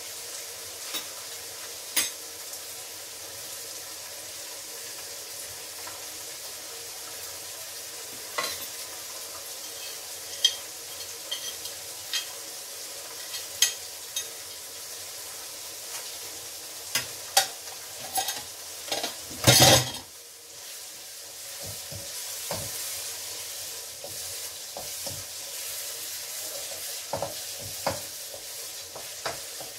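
Food sizzling in a wok, with a utensil clicking and scraping against the pan and dishes now and then. A louder clatter comes about two-thirds of the way through, and the sizzle dips briefly just after it.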